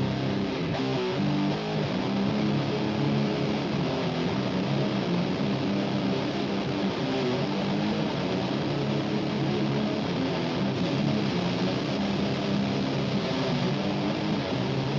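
Playback of a death metal mix led by distorted electric guitars, with the guitars run through an Ampex ATR-102 tape-machine emulation plugin. The chords are held low, dense and steady.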